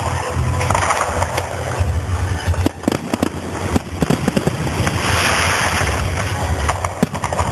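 Aerial fireworks bursting and crackling in quick, irregular succession, with a dense hissing shower of crackle about five seconds in.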